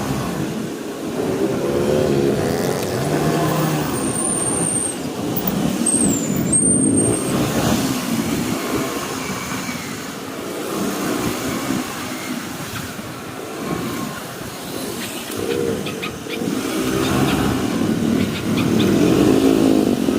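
Motorcycle engine running under way, its pitch rising and falling several times as the rider speeds up and eases off.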